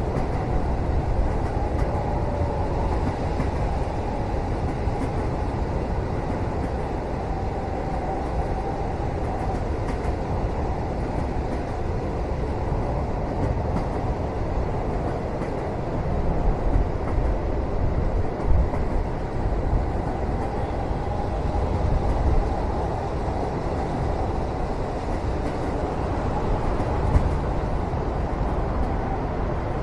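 Steady low rumble of a moving train heard from inside a passenger cabin. A few light bumps stand out, the loudest about two-thirds of the way in.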